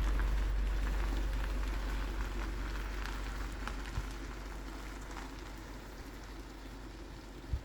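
Volkswagen Tiguan 2.0 TSI engine running steadily after its cylinder head rebuild, a low hum under a crackling patter that slowly fades.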